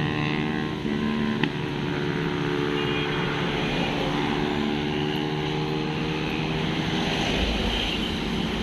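A vehicle engine running steadily, with a single sharp click about one and a half seconds in.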